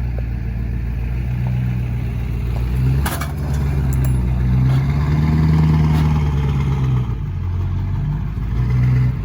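2003 LB7 Duramax diesel V8 pickup engine under throttle while the truck pushes a scrap car. The revs climb about three seconds in, hold higher for a few seconds, then drop back. A sharp knock comes near the start of the climb, with a few lighter knocks after it.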